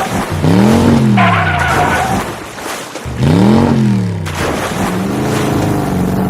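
Cartoon vehicle engine sound effect revving up and back down twice, with a cluster of higher ringing tones between the revs, then settling into a steady engine hum near the end.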